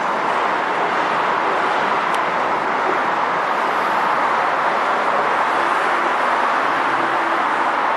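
Steady rushing noise of a vehicle going by, even throughout, with no distinct tones or clicks.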